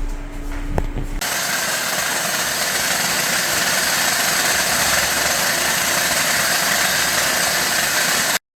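A power tool starts about a second in and runs steadily, a loud, even whir that cuts off suddenly near the end.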